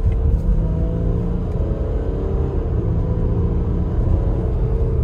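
A 2018 Jeep Grand Cherokee's 3.0-litre V6 turbo-diesel heard from inside the cabin while driving, with heavy low road and engine rumble. The intake noise of an aftermarket Injen intake is mixed in, a lot more pronounced. The engine's pitch drifts up and down slightly around the middle.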